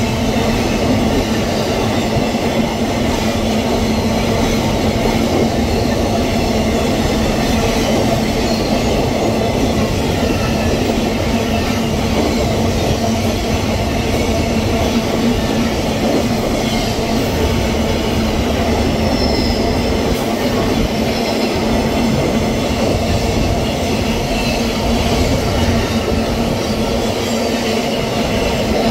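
Empty iron-ore freight train rolling past, a steady loud rumble of wheels on rail, with a brief faint high wheel squeal about two-thirds of the way through.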